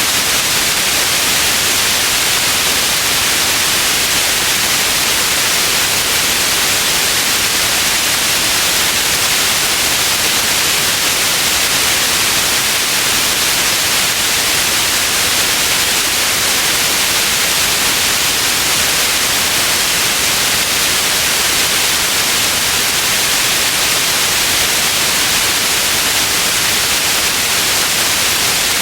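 Steady white noise: an even, unbroken hiss, strongest in the upper range, at a constant loud level.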